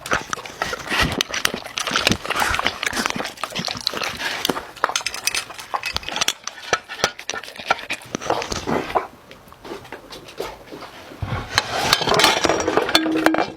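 A dog eating and panting, with many quick clicks and clinks of a dish; there is a lull about two thirds of the way through.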